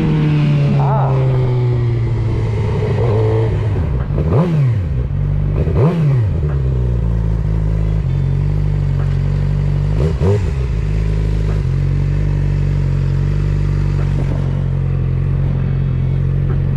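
Motorcycle engine idling steadily, with three quick throttle blips, the revs shooting up and dropping straight back, about four, six and ten seconds in.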